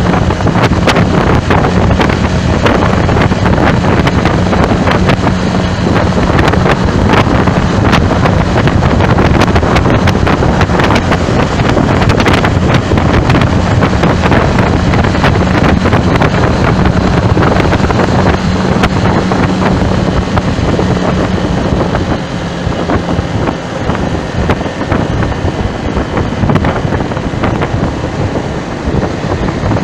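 Loud wind buffeting the microphone, with constant crackling gusts and a steady low hum under it that fades away about 23 seconds in.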